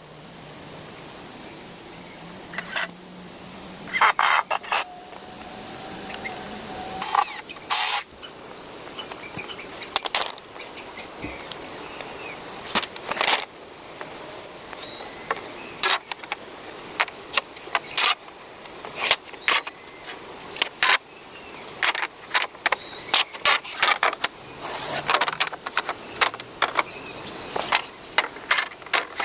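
Irregular sharp knocks and clicks of wood and tools being worked by hand, some in quick runs, over a steady outdoor hiss, with a few faint bird chirps.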